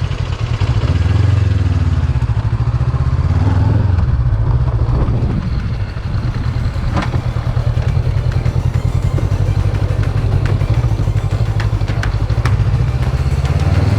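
Honda CB500X parallel-twin motorcycle engine running at low revs as the bike rides slowly along, with a few sharp clicks in the second half.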